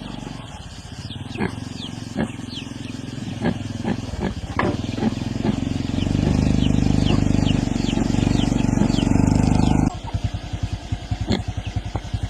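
A small engine running steadily, growing louder about six seconds in and dropping back abruptly near ten seconds, with scattered clicks and rattles over it.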